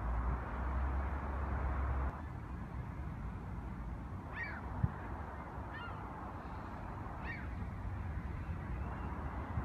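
A bird calling overhead: three short, falling cries about a second and a half apart, over a low outdoor rumble, with a single low thump between the first two calls.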